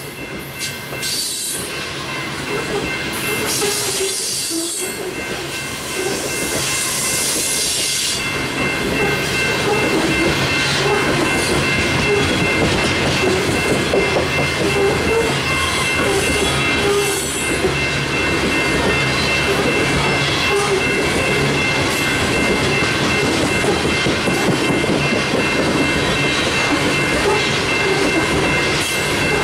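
Empty coal train's gondola cars rolling past on a curve: a steady rumble and clatter of wheels on rail, with a thin sustained high squeal of wheel flanges running under it. Bursts of hiss come and go in the first eight seconds, and the rumble grows louder about eight seconds in.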